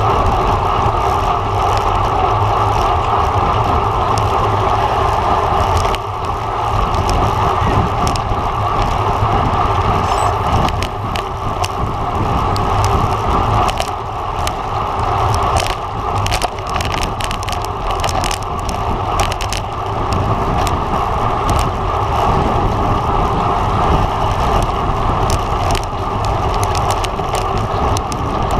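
Road bike ridden at race speed, heard from a camera on the bike: a steady rush of wind and tyre noise over a low road rumble, with scattered brief clicks.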